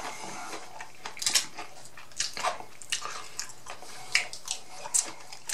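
Close-up chewing and lip smacking, with scattered wet mouth clicks, from a man eating fried boneless chicken wings.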